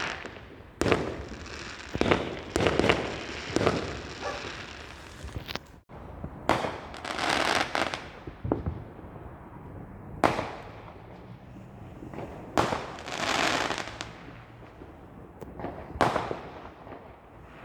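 Fireworks going off in quick succession: repeated sharp bangs from several directions, a few of them trailing off into longer crackling bursts.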